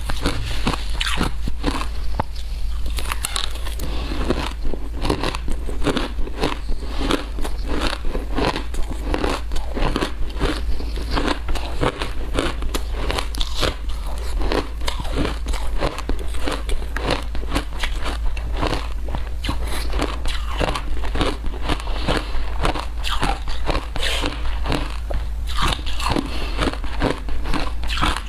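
Frozen matcha ice being bitten and crunched between the teeth, many crisp crunches in quick, irregular succession, over a steady low hum.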